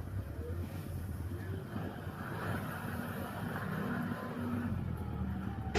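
A steady low rumble with faint held tones, like a motor vehicle running.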